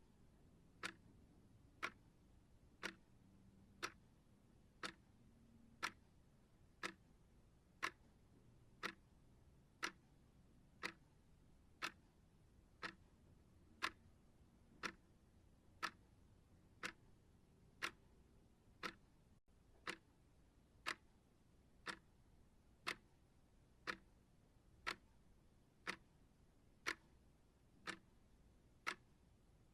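Clock ticking steadily, one short sharp tick a second.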